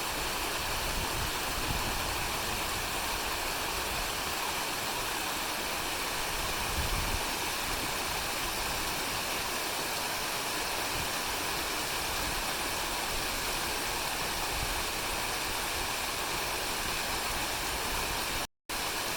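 Kuzuryu Falls' water pouring and splashing steadily, a constant even rush of falling water. The sound drops out for a moment near the end.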